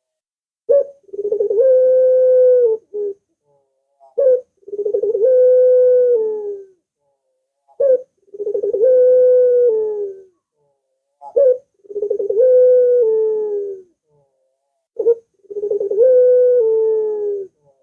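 Puter dove cooing in a repeated phrase: a short clipped note, then a long held coo that falls in pitch at the end. The phrase comes five times, about every three and a half seconds.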